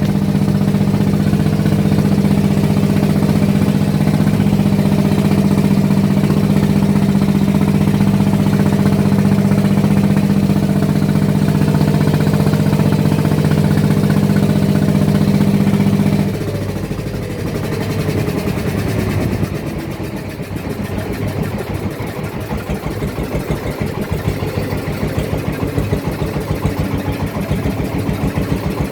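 Small boat's engine running steadily, then throttled back about sixteen seconds in. Its pitch falls, and it carries on at lower revs with a rapid, even chugging beat.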